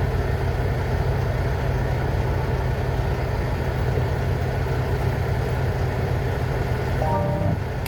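Semi-truck diesel engine running at a steady low hum. A short pitched tone sounds briefly about seven seconds in.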